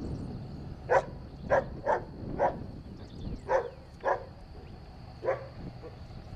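A dog barking about seven times in short, sharp, irregularly spaced barks.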